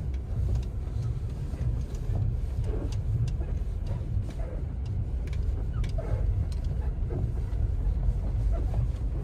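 Lada XRAY rolling slowly over uneven ground: a steady low rumble with a few short squeaks and knocks from the front wheel area, the rubbery creak of the front suspension that is the fault being shown.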